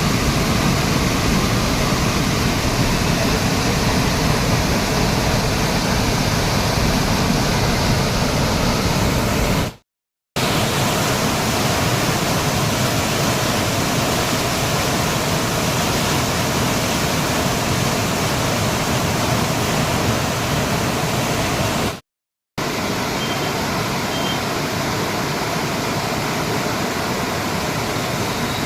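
Rushing floodwater from a dam release and a river in spate, a loud steady wash of noise. It breaks off into silence for a moment twice, about ten and twenty-two seconds in, then resumes.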